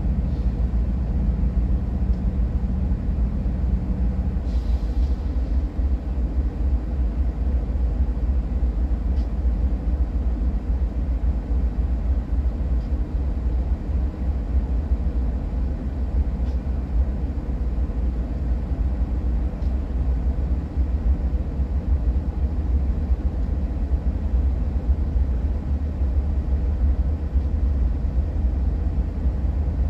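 Diesel locomotives of a BNSF freight train rumbling slowly past as the train departs, a deep continuous rumble. A steady engine hum sits on top for the first four and a half seconds, then drops away.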